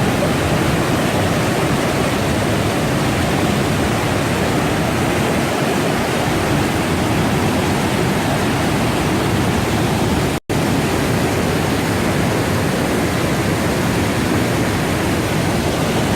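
Rushing water, a mountain creek or waterfall: a loud, steady rush with no change, cut off for a split second about ten seconds in.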